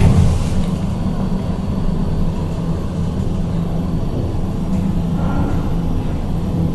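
Steady low rumble of a KONE MiniSpace traction elevator car travelling between floors.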